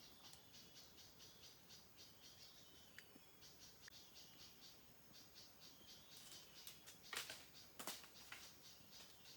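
Faint, rhythmic high chirping of a rainforest animal chorus, about three pulses a second. Two sharp clicks stand out about seven and eight seconds in.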